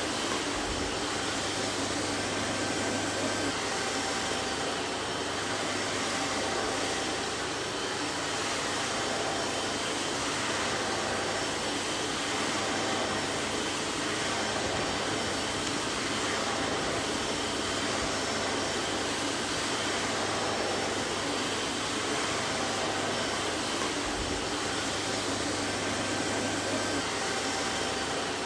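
Vacuum cleaner running steadily: an even rushing motor-and-airflow noise with a low hum and faint steady tones, no change in pitch or level.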